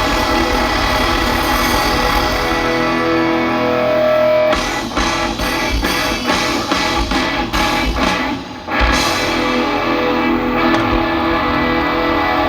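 Rock music led by electric guitar: held chords, then in the middle a run of short, evenly spaced chord hits about three a second, then held chords again.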